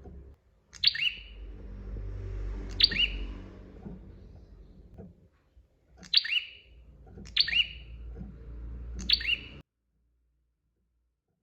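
A prenjak (prinia) giving short, sharp chirping calls, five of them spaced one to three seconds apart, over a low background rumble. The sound cuts off abruptly about two seconds before the end.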